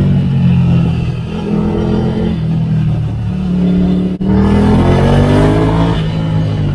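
Ducati Scrambler Icon's air-cooled 803 cc L-twin engine through a Termignoni exhaust, pulling under acceleration on the move. Its pitch climbs, eases off midway, then climbs again after a brief break about four seconds in.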